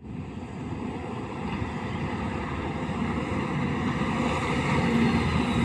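Diesel engine of heavy earthmoving machinery running, a steady rumble that grows gradually louder, with wind buffeting the microphone.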